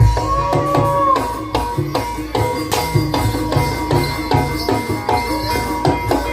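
Banyumasan gamelan music accompanying an ebeg horse dance: a steady rhythm of kendang hand-drum strokes under held, ringing metal tones. Near the start a pitched line swells up and falls away over the beat.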